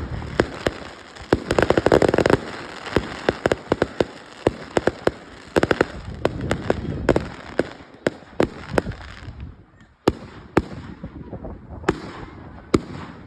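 A fireworks display going off: a dense run of bangs and crackle for about nine seconds, thinning to a few single bangs near the end.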